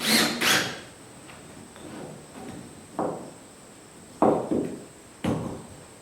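A few short scraping or rustling noises in the first second, then three separate knocks, each dying away quickly.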